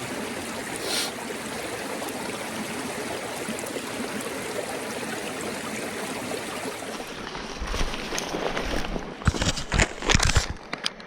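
Creek water flowing steadily. From about seven seconds in, close knocks, clicks and rustling of handling near the microphone come over it.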